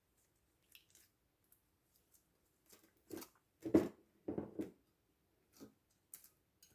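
Close-up hand handling sounds while making slime: a string of short, soft squishes and crackles, loudest in a cluster of three or four a little past the middle.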